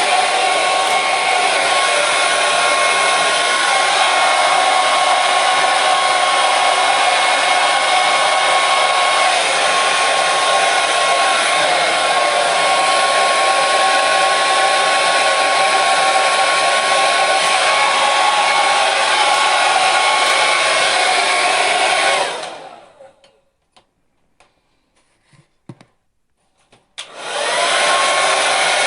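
Hair dryer running with a steady rushing blow and a thin whine. About three-quarters of the way through it dies away over a second to near silence, with a few faint clicks. It starts up again shortly before the end.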